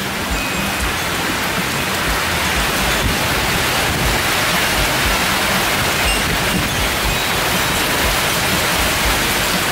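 Heavy rain pouring down in a severe thunderstorm: a dense, steady hiss.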